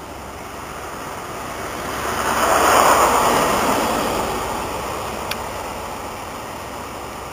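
First Great Western HST (InterCity 125) passing along the platform: a rushing roar swells to its loudest about three seconds in as the rear Class 43 power car goes by, then fades as the train draws away.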